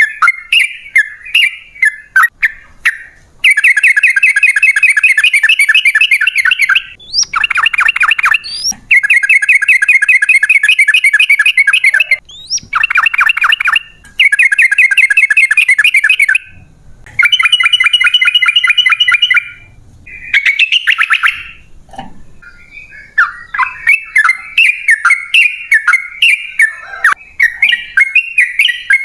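Yellow-vented bulbul singing: bubbly chirped phrases, then several long rapid trills of quickly repeated notes, each a few seconds long with short breaks between, then back to chirping near the end.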